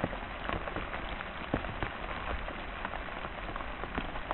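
Heavy rain falling: a steady hiss broken by irregular sharp ticks of drops landing close by.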